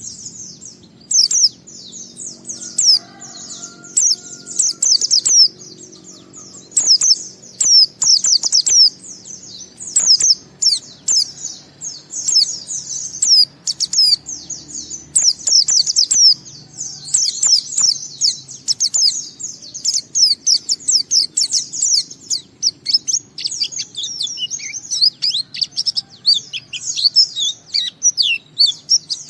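White-eye (pleci) singing a fast, continuous twittering song of high chirps and quick sweeps with only brief gaps, in the long unbroken style bird keepers call 'ngalas'.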